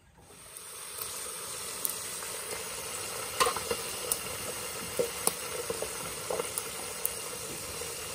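Fish pieces frying in a pan: a steady sizzle that fades in over the first second, dotted with sharp pops, one louder click about three and a half seconds in.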